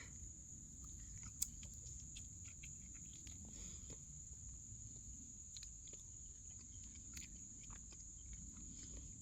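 Faint outdoor ambience: a steady high-pitched insect trill over a low rumble, with a few faint clicks scattered through it.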